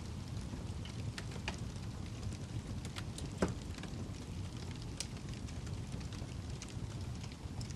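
Wood fire burning in a fireplace: a steady low rumble with scattered sharp crackles and pops, the loudest pop about three and a half seconds in.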